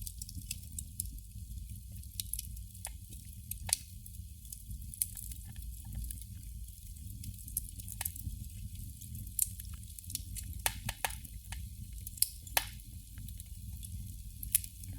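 Candle flame crackling: irregular small pops and sputters, a few of them sharper, over a steady low rumble.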